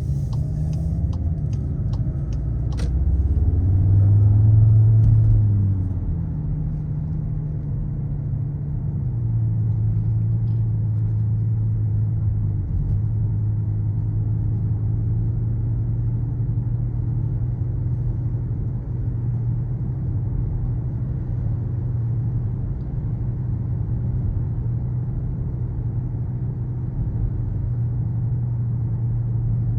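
Skoda Kodiaq RS's turbocharged 2.0 TSI four-cylinder engine and exhaust: the pitch and loudness rise under acceleration about four to five seconds in, then settle into a steady low drone while cruising. Turn-signal ticking during the first three seconds.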